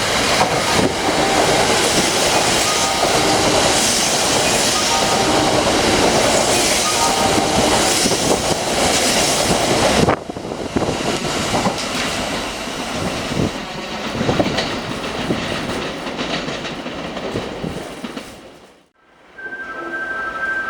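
Kintetsu electric train running along a station platform, a loud rush of wheel-on-rail noise with the clickety-clack of wheels over the rail joints. About ten seconds in the sound drops abruptly to quieter train running noise with scattered clacks. It fades out briefly near the end before a quieter sound with steady tones comes in.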